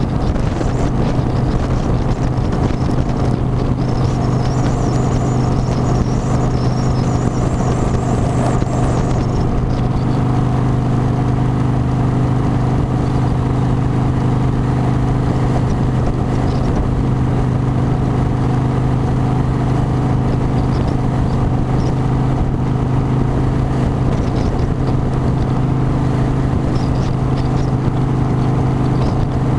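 Harley-Davidson motorcycle's V-twin engine running at a steady cruising speed, its even drone mixed with wind rush.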